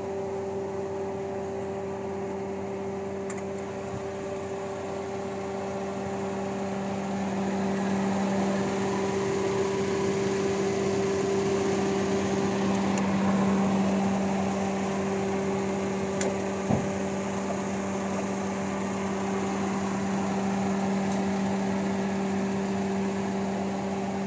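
Car engine idling with a steady hum, a few faint clicks and one light knock about two-thirds of the way through.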